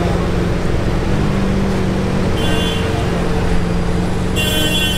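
Lamborghini Centenario's V12 engine idling steadily. Short high-pitched tones sound twice over it, about two and a half seconds in and again near the end.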